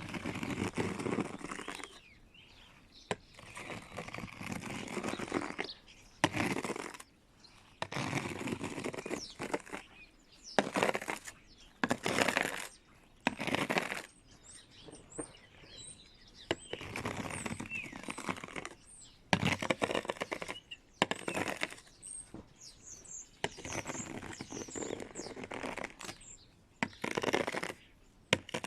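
Snow being swept off a car in repeated brushing strokes, about a dozen of them, some short and some long, with short pauses between. Faint high bird chirps come through between strokes in the middle part.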